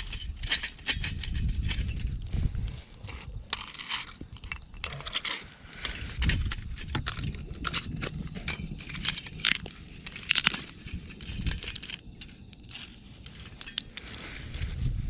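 Twigs and sticks cracking and snapping amid rustling brush as firewood is gathered by hand, with irregular low thuds of footsteps.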